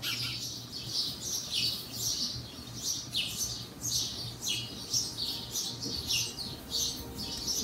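Small birds chirping in a rapid, continuous string of short high calls, several a second, many falling in pitch, over a faint steady low hum.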